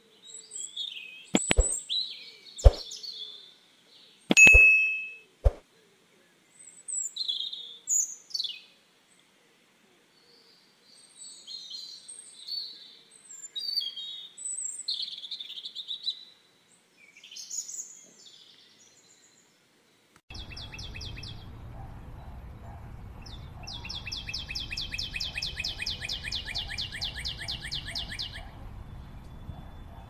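Birds chirping in short, scattered calls, with a few sharp clicks in the first seconds. From about two-thirds of the way in, a steady hiss sets in and a fast buzzy trill sounds for about five seconds.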